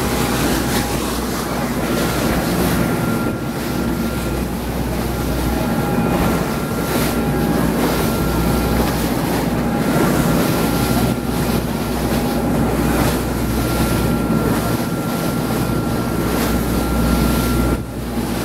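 Boat engine running steadily with water rushing past the hull and wind buffeting the microphone.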